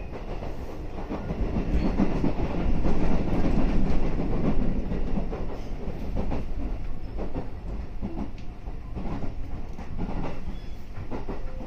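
Cabin of a JR West 221 series electric train under way: a steady rumble with the wheels clacking over rail joints, loudest about two to five seconds in.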